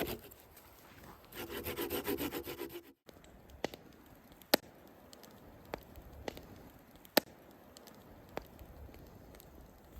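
Hand saw cutting through wood in quick back-and-forth strokes, in two short bouts. After an abrupt cut about three seconds in, only a quiet background with a few sharp isolated clicks remains.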